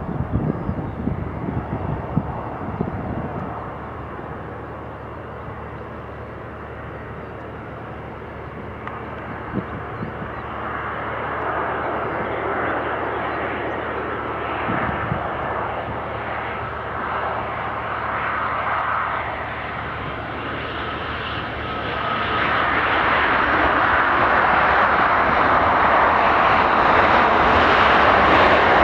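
Jet airliner's engines approaching to land, a steady roar that grows louder, rising markedly about two-thirds of the way through. Gusty wind buffets the microphone in the first few seconds.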